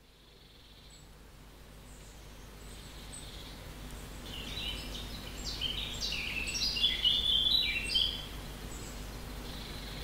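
A songbird singing a quick run of varied high chirping notes for about four seconds, starting about four seconds in, over a steady low outdoor background that fades in.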